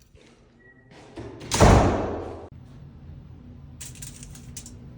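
A door slams shut about a second and a half in, a heavy thud that dies away over about a second; a few faint clicks follow near the end.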